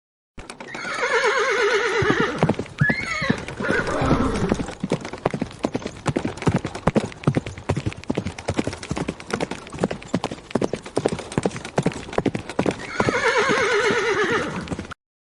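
Horse whinnying, then hooves clip-clopping in a quick, even rhythm for about ten seconds, with a second whinny near the end.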